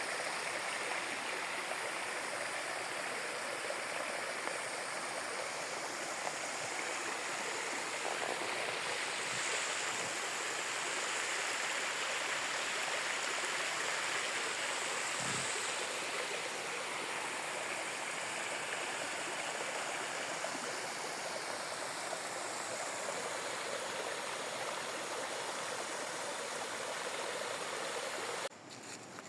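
Steady sound of a stream's flowing water; it drops off abruptly near the end.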